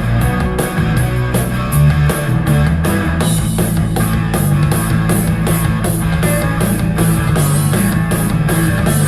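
Portable Bluetooth speaker playing a guitar-driven song with a strong bass line and a steady drum beat.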